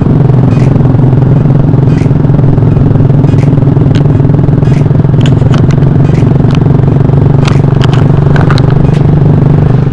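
Motorcycle engine with a loud aftermarket exhaust running at a steady speed, a constant low drone with scattered light clicks over it.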